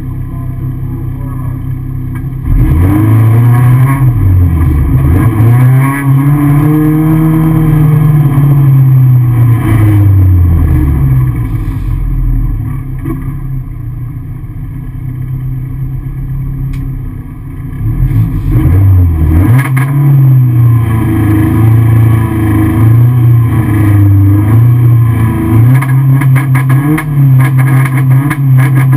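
Peugeot 205 Kit Car rally engine heard from inside the cabin: quiet idle, then revved in long rises and falls, a lull at lower revs, and from about two-thirds of the way in quick repeated blips held at high revs, as at the start line before a hillclimb launch.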